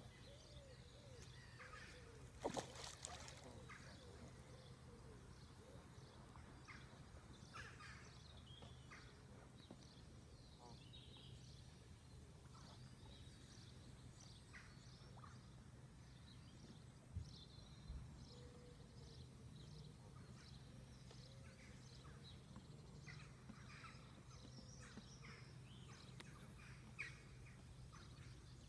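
Faint outdoor birdsong: many short, scattered chirps and calls from small birds over a low steady hum, with one brief knock about two and a half seconds in.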